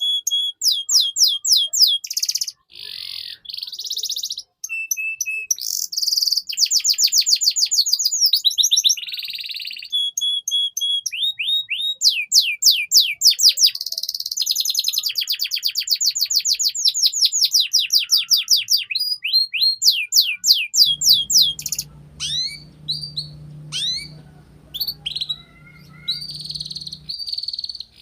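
Domestic canary singing a long, continuous song of fast trills and rolls of repeated notes, switching to a new phrase every second or two.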